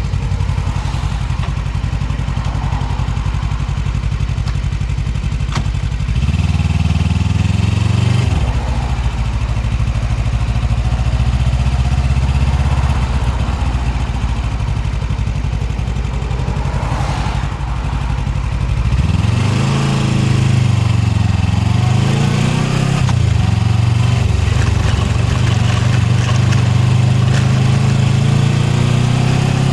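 Suzuki GSX250R's parallel-twin engine running under way, with wind noise over the microphone. The revs hold steady, rise briefly about six seconds in and drop back near eight seconds. From about nineteen seconds the pitch rises and dips several times, then climbs steadily toward the end.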